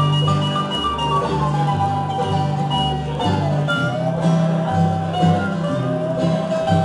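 Bluegrass band of dobro, guitars, banjo, mandolin and upright bass playing an instrumental passage without singing: a lead line of gliding notes over plucked strings and a steady bass.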